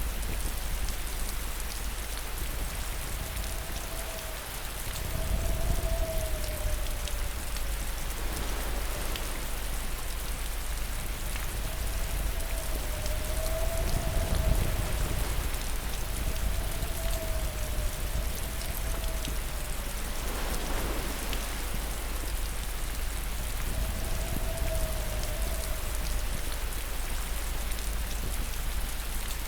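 Steady heavy rain falling, an even hiss with low rumbling swells rising twice. A faint wavering tone comes and goes several times over the rain.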